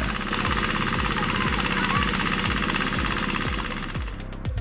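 Heavy diesel engine of a logging truck running under load, with a steady, regular pulsing. It eases off slightly near the end.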